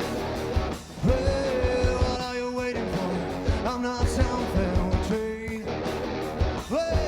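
Live rock band playing: drum kit and electric guitar, with long held notes that slide up into pitch a few times.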